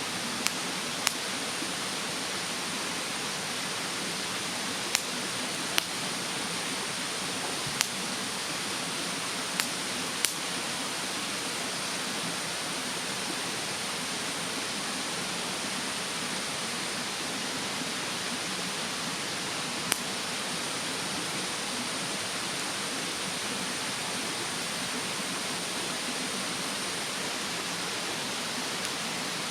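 Wood fire in a fire stand, giving a few sharp crackling pops, most of them in the first ten seconds and one more about twenty seconds in. Under them runs the steady rushing of a mountain stream.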